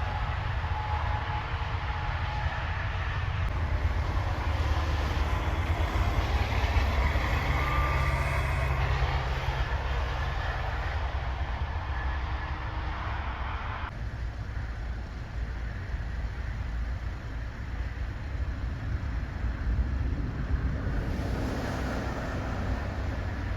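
Heavy trucks climbing a hill, making a steady low engine rumble with road noise over it. The higher part of the noise falls away a little over halfway through.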